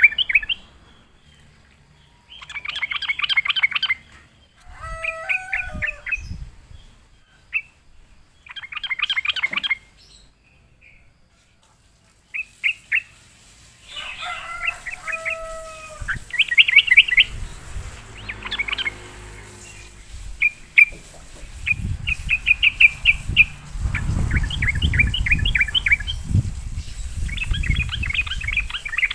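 Yellow-vented bulbuls (trucukan) calling in bursts of rapid chattering notes mixed with short lower whistled phrases. The phrases last a second or two with brief pauses between them, and there is a low rumble underneath in the last few seconds.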